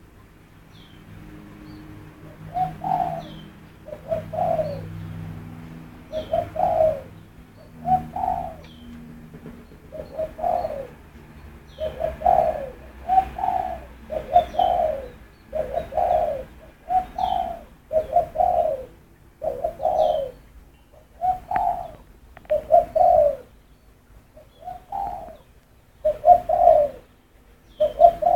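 A bird giving short, mellow calls over and over, one every second or two.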